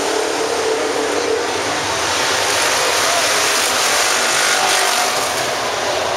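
Pure stock race cars running on the track, their engines making a loud, steady, noisy rush.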